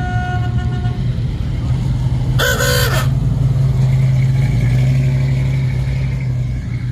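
Vintage car engine running with a steady low drone that swells a little past the middle. About two and a half seconds in there is a brief, loud, high-pitched call lasting about half a second, and a fainter tone sounds in the first second.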